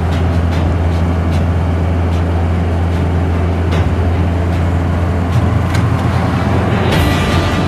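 Steady low drone of a motor vehicle running, with scattered faint clicks; a hiss comes in near the end.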